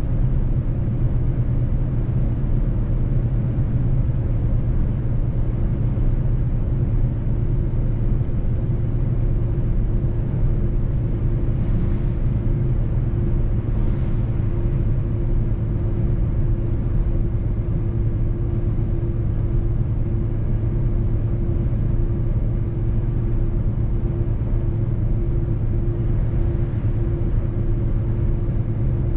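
Mercedes-Benz truck driving at a steady speed: a steady low rumble of engine and road noise with a constant drone.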